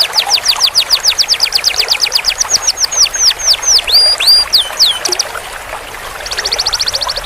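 Canary singing a long roll: a fast run of repeated falling notes that slows into longer downward sweeps, then after a short break about five seconds in, a very rapid trill.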